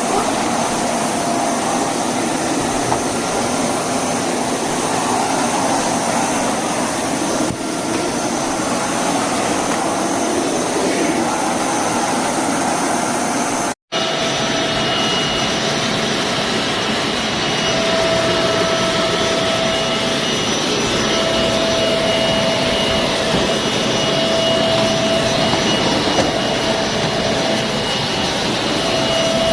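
Bissell Zing bagless canister vacuum cleaner running, a steady rushing motor noise with a high whine. The sound breaks off for an instant about fourteen seconds in and resumes.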